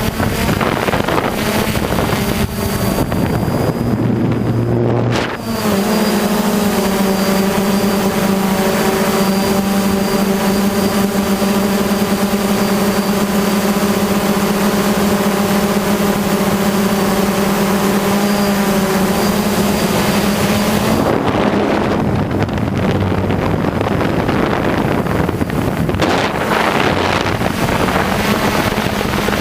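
Hexacopter's electric motors and propellers humming at a steady pitch, with wind buffeting the microphone. The hum is loudest and most even in the middle stretch, then sinks back under the wind noise for the last several seconds.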